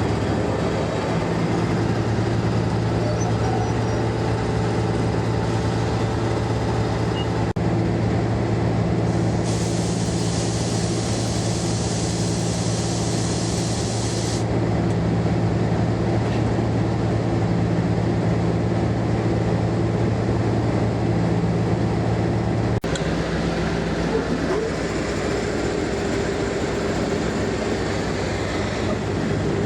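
Diesel locomotive engine running steadily with a low hum. About ten seconds in, a hiss comes in for about five seconds, then stops.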